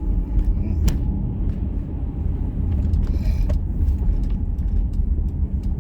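Steady low rumble of a car's engine and tyres, heard from inside the cabin while driving. A sharp click comes about a second in, and a few fainter ticks follow.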